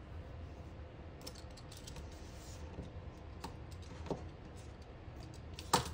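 Light, scattered clicks and taps of planner stickers and paper being handled on a desk, with a sharper click near the end, over a low steady hum.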